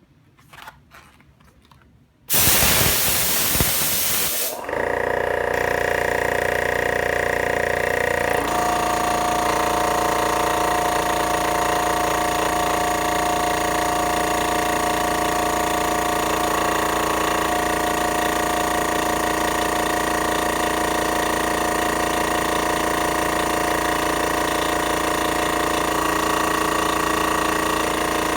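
MAX AK-615P2 air compressor: a few light clicks, then about two seconds in a loud hiss for about two seconds, after which the compressor runs steadily with a constant machine hum, its tone shifting slightly a few seconds after it starts.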